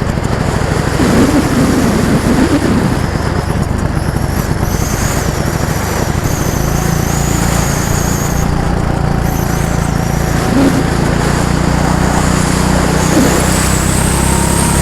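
Several go-kart engines running on the track at once, a steady drone with high whines that rise and fall as the karts speed up and slow.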